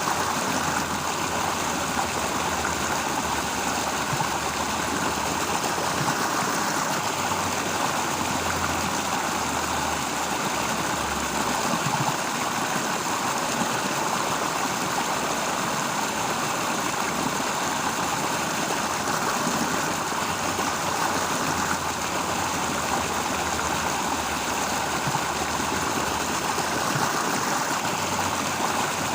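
Steady rural outdoor ambience: a continuous, even rush like flowing water, with a low rumble underneath that swells and fades every second or two.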